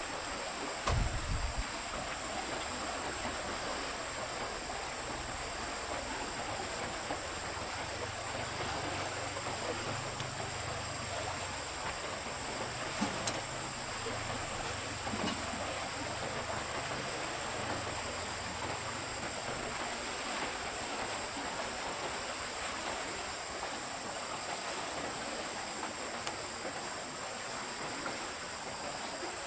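Steady rushing of a forest stream, with a thin steady high-pitched tone above it, a low rumble through the middle stretch and a few soft knocks about a second in and near the middle.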